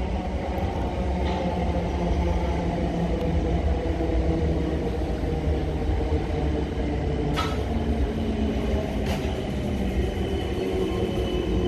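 A train running with a steady low rumble and a mechanical hum, with two sharp clicks about 7 and 9 seconds in.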